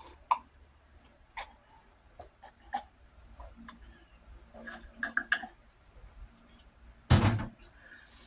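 Mouth sounds of a man drinking and eating: a string of wet clicks and gulps, then a short, loud burp about seven seconds in.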